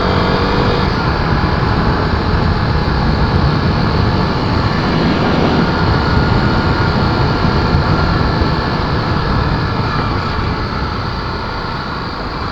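Honda XR250 Tornado's single-cylinder engine running steadily under way, mixed with heavy wind rush on the action camera's microphone.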